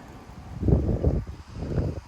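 Wind buffeting the microphone: two low, rumbling gusts, one about half a second in and another near the end.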